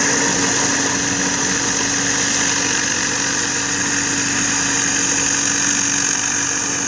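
Pressure washer running steadily on concrete, an engine drone under a steady high hiss.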